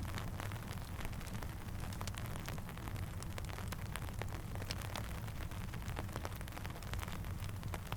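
Steady rain with many scattered sharp pops and crackles, like raindrops and a campfire, over a low steady rumble.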